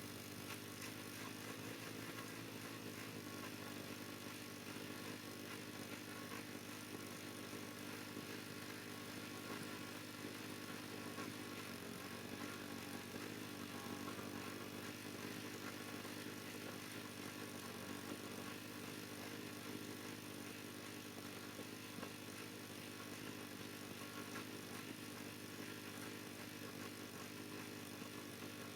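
A motor running steadily, with a brief dip in pitch about twelve seconds in.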